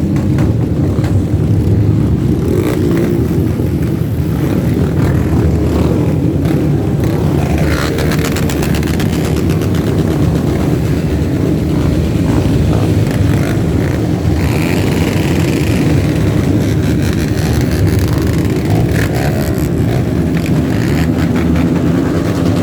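A crowd of off-road trail motorcycles running together, many engines overlapping into one continuous loud drone, with individual bikes revving over it.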